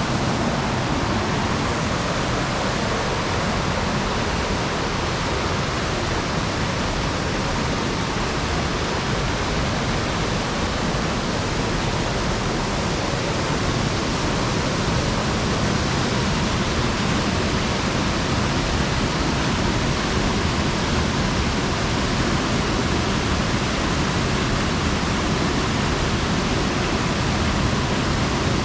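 Steady rushing of falling water from a tiered waterfall, an even roar without breaks.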